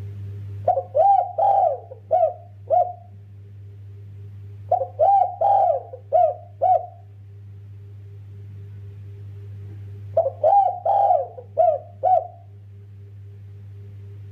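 Spotted dove (derkuku) cooing in three bouts of about five coos each, a few seconds apart, over a steady low hum.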